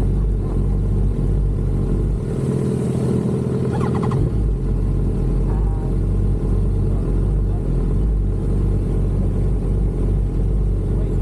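Sport motorcycle engine running steadily, its note changing briefly between about two and four seconds in.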